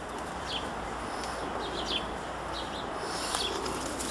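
A small bird chirping: short, high, downward-sliding notes repeated about one or two times a second, over steady outdoor background noise, with a few sharp clicks near the end.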